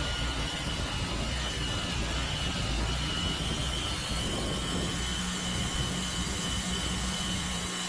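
Norwood Lumbermate Mark IV band sawmill head running steadily: a constant engine rumble with a steady high-pitched whine.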